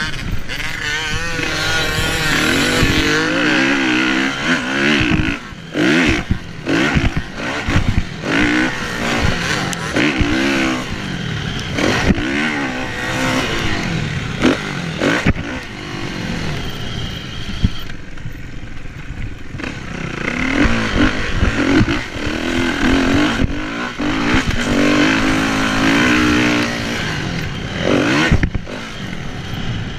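Kawasaki KX450F single-cylinder four-stroke motocross engine, revving up and falling off again and again as the throttle is opened and shut, with frequent sharp knocks and clatter.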